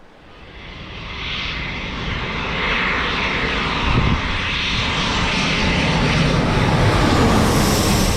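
Jet airliner engines passing close: the sound builds over the first few seconds and then stays loud and steady, with a high hiss growing stronger near the end.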